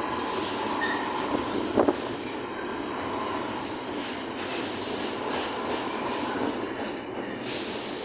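Northern class 769 multiple unit running past on the rails: a steady rush of wheel and rail noise, with a couple of sharp clicks about two seconds in.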